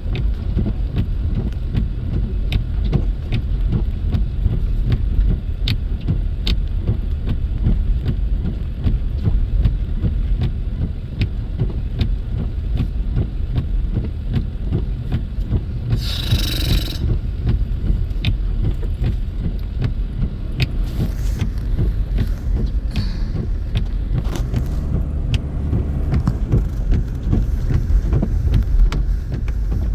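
Car road noise heard from inside the cabin while driving on snowy roads: a steady low rumble with faint light clicks throughout. About halfway through comes a brief, louder hiss.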